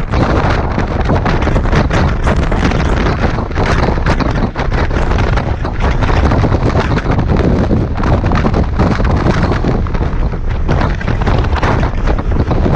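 Strong wind buffeting the microphone of a moving motorcycle: loud, continuous wind noise with rapid, irregular thumps of gusts.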